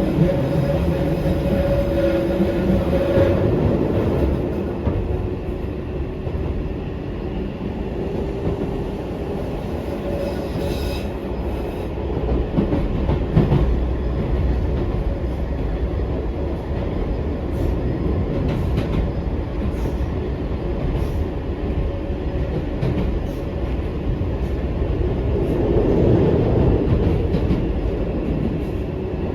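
Eizan Electric Railway 900 series "Kirara" train running, heard from inside the car: a continuous low rumble of wheels on rail. A steady motor tone fades out in the first few seconds, and a couple of sharp clicks come about 11 and 13 seconds in. The running gets louder for a while near the end.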